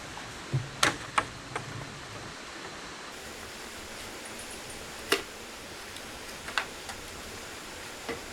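Six or so sharp, short knocks at irregular intervals, the loudest about a second in and again near the middle, over a steady hiss.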